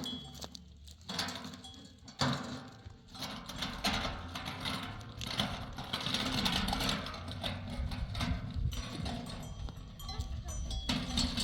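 Livestock bells clinking and jangling among a moving flock, with a busy, noisy background of the animals.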